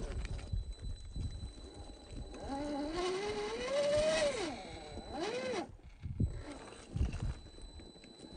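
A 1/10-scale RC crawler's electric motor and drivetrain whining under throttle, sounding deep because the audio is slowed to half speed. The whine rises in pitch for about two seconds, drops off, then rises and falls once more, with low clatter of the truck on rock.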